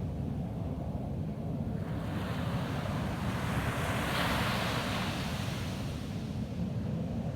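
Ocean waves on a beach: one wave's hiss swells about two seconds in, peaks near the middle and fades away, over a steady low rumble of wind on the microphone.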